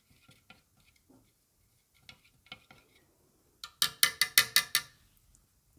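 A stir stick stirring water and white paint in a cup, with light scrapes and taps at first, then a quick run of about eight ringing clinks against the side of the container.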